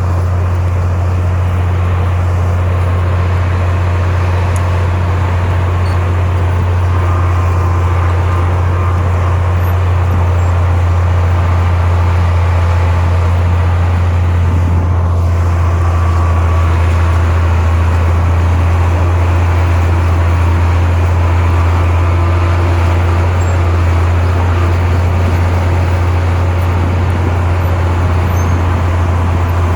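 Komatsu bulldozer's diesel engine running steadily, a constant loud low drone that holds the same pitch throughout.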